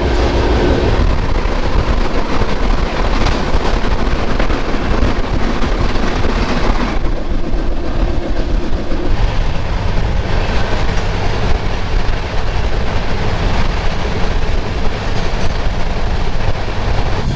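Passenger train running at speed, heard from an open coach doorway: the steady noise of the wheels on the rails and the moving coach.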